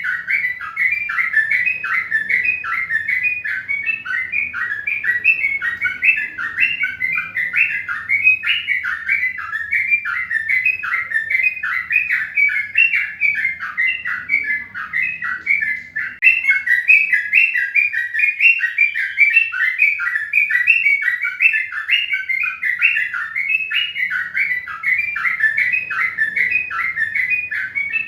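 Birds chirping without a break, a dense run of short, quick chirps at several per second, dipping briefly about halfway through.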